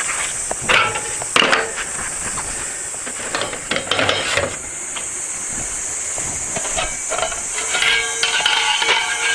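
Cicada chorus, a steady high-pitched drone, with scattered knocks and clatter.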